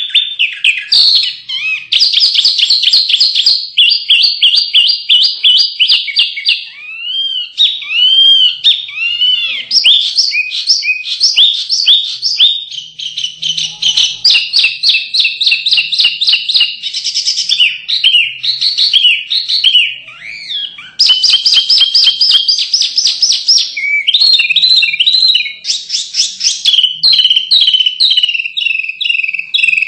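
Small songbirds singing a loud, continuous, energetic song: rapid high trills and chattering phrases, with a few slurred, arching notes in the middle. This is 'masteran' tutor song in the fighting style used to prompt contest birds to sing.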